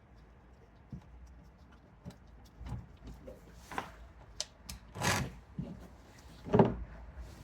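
Scattered clicks, knocks and clunks of hand tools and metal parts being handled during work on a motorcycle's primary case, the loudest knock about six and a half seconds in.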